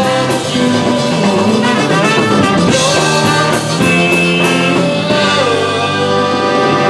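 Polka band playing, with brass to the fore over a drum kit.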